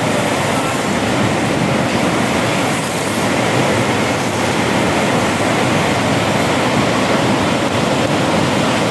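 Heavy rain pouring down in a downpour, a steady, loud hiss of falling water.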